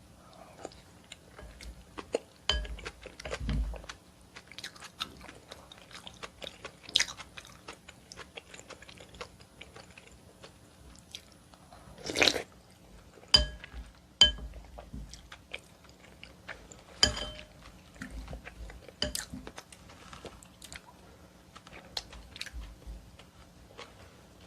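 Close-miked chewing and wet mouth sounds of someone eating seaweed and oyster soup. Scattered sharp clicks, some briefly ringing, and a louder burst about twelve seconds in.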